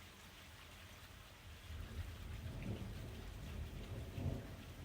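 Steady rain falling, with a low rumble of thunder swelling and fading through the middle.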